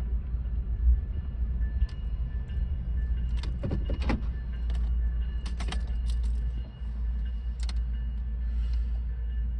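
Train rolling past with a steady low rumble, broken by several sharp metallic clanks and clicks, the loudest about three and a half to four seconds in.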